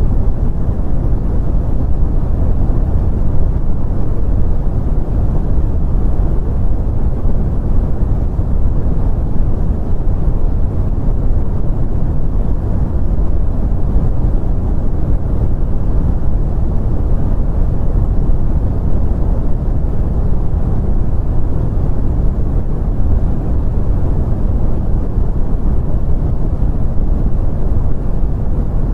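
Continuous brown noise: a steady, deep rumbling hiss with most of its energy in the low end, unchanging throughout.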